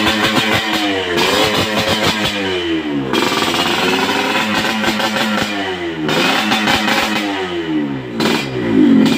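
Yamaha RX-King two-stroke single-cylinder motorcycle engine with an aftermarket under-slung exhaust, revved repeatedly. Its pitch rises and falls about three times.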